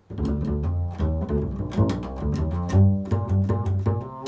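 Upright double bass played pizzicato: a quick, improvised run of plucked low notes that starts suddenly and keeps going without a break.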